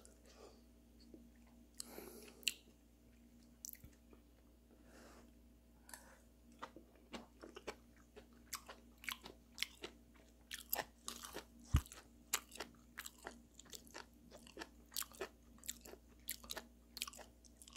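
A person chewing steamed beef tripe close to the microphone: a run of short, sharp mouth clicks that grows much busier from about six seconds in.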